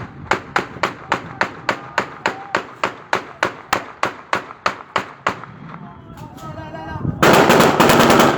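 Gunfire: a steady string of single shots, about four a second, for about five seconds, then after a short lull a dense burst of rapid automatic fire, the loudest part, near the end.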